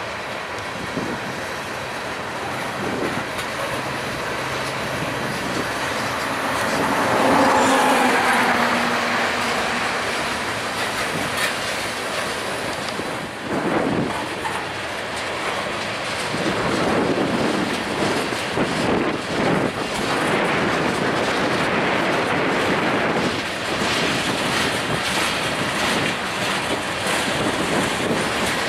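Freight cars of a mixed train rolling past at trackside: a steady rumble of steel wheels on rail with clacks over the rail joints. It is loudest about eight seconds in.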